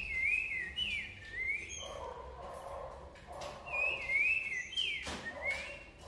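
A songbird singing two phrases of slurred, wavering whistled notes, the second starting about three and a half seconds after the first.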